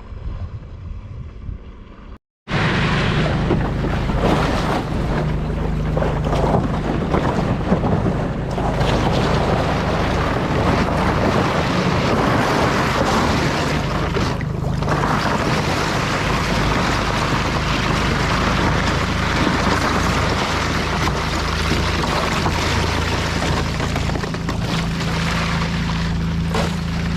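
A boat's small outboard motor running steadily under way, with water rushing past the hull and wind buffeting the microphone. The loud running sound starts suddenly after a cut about two seconds in.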